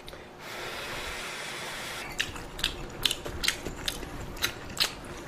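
Close-miked chewing of ramen and a kimchi dumpling: sharp wet mouth clicks, a couple a second, starting about two seconds in over a steady hiss.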